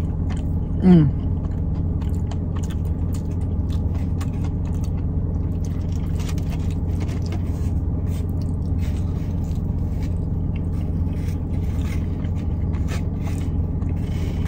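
A person chewing pizza, with many small wet mouth clicks and a short falling "mmm" about a second in, over a steady low rumble inside a car.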